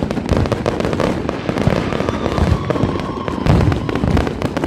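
Dense, rapid crackling and popping of a ground firework barrage, the 'screaming demons', with a faint steady whistle in the middle.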